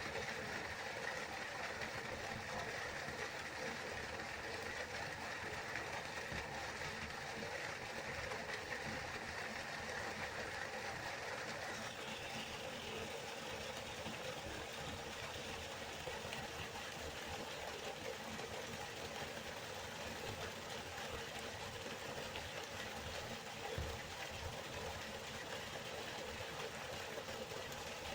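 Waterfall: a steady rushing of falling water, whose tone shifts slightly about halfway through.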